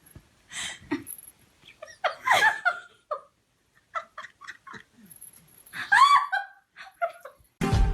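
A person laughing and giggling in short bursts. Music starts just before the end.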